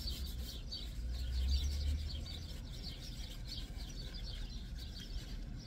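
Small birds chirping rapidly over a low steady hum.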